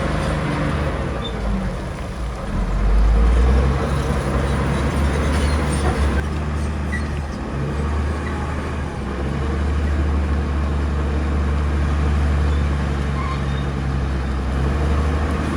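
Heavy diesel engine of earthmoving machinery running steadily with a deep drone, growing louder about three seconds in.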